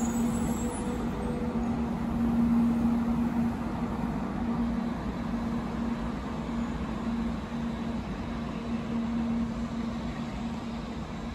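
A 700 Series Rail Star shinkansen train pulling slowly away along the platform: a steady rumble of the running gear with a low hum beneath, fading gradually as the train draws off.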